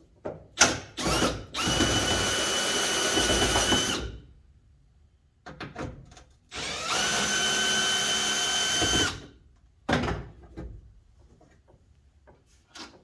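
A handheld power tool runs twice, each time for about two and a half seconds with a steady whine, with clicks and knocks of handling before, between and after the runs.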